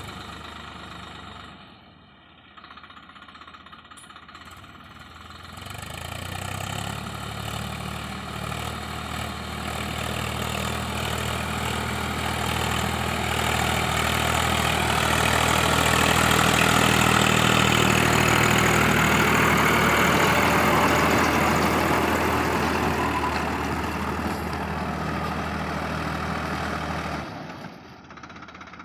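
Swaraj 744 FE tractor's three-cylinder diesel engine running, quieter for a few seconds near the start, then rising in pitch and growing louder to a peak in the middle before easing and dropping away abruptly near the end.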